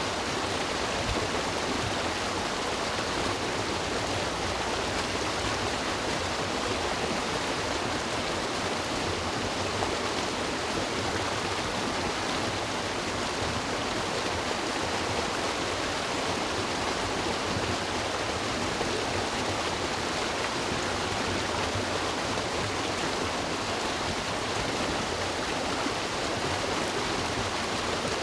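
River water flowing and rushing over rocks, a steady, even wash of sound without a break.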